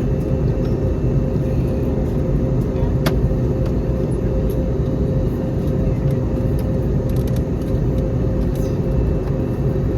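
Steady cabin noise of an Airbus A321neo airliner: a low rumble of engines and airflow with a thin steady hum running through it, and a single sharp click about three seconds in.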